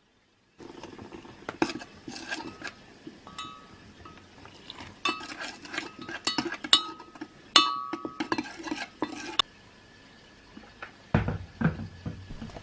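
Dishes and cutlery clinking and knocking: a busy run of sharp clicks and short ringing clinks, then a few duller, heavier knocks near the end.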